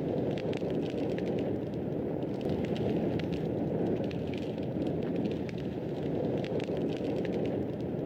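Fireplace fire crackling: a steady low rush of burning with frequent small, irregular crackles and pops.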